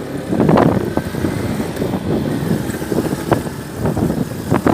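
Motor vehicle noise, uneven and rumbling, with several sharp knocks and rattles.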